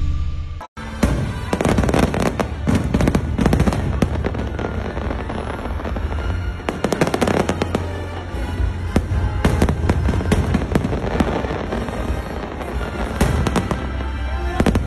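Fireworks display: many sharp bangs going off in quick, overlapping succession over a steady low rumble, with music playing underneath.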